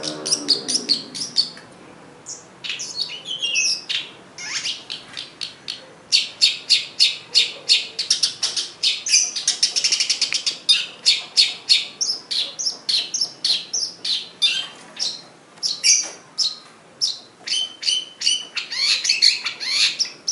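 Long-tailed shrike (pentet) singing: fast runs of short, sharp, high chattering notes, about four or five a second, some sweeping up or down, broken by brief pauses.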